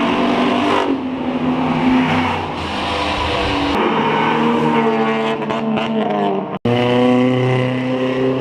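Race car engines revving hard and accelerating, their pitch climbing and falling as they pull away. A sudden break about six and a half seconds in cuts to another stretch of engine noise.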